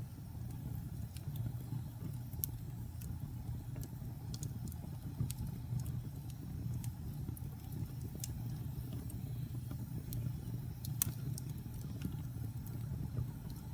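Wood fire burning in a fireplace: a steady low rumble of the flames with scattered sharp crackles and pops from the burning wood, one louder pop about eleven seconds in.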